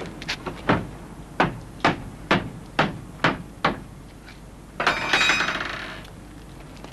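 A run of sharp knocks or blows, about two a second, followed about five seconds in by a brief, louder clattering crash with a metallic ring.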